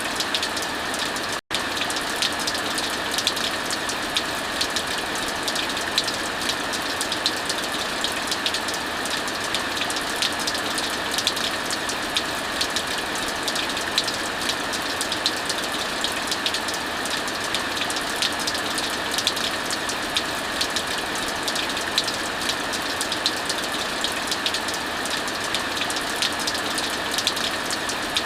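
Steady hiss of heavy rain mixed with the frequent small pops and crackles of a wood fire. The sound cuts out for a moment about a second and a half in.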